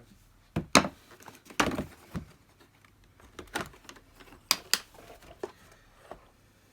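Handling noise: a scattered series of short clicks and knocks, about ten, with a few louder ones in the first two seconds.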